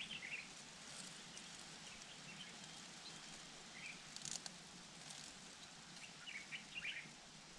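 Faint short bird chirps, a few scattered and a quick cluster near the end, over a steady outdoor background hiss, with a brief crackle about four seconds in.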